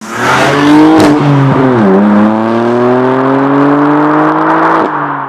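BMW M4's turbocharged inline-six engine and exhaust under acceleration: the note drops briefly in pitch about two seconds in, then rises steadily before fading out near the end.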